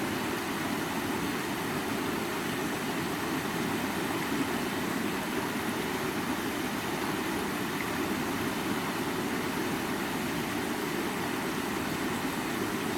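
Stream water running, a steady, unbroken rush.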